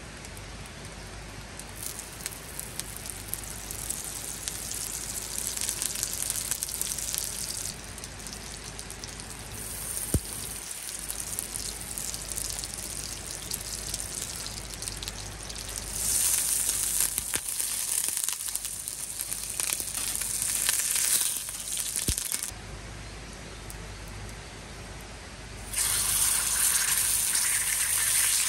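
Food sizzling and crackling in a hot pan, in several stretches that start and stop abruptly.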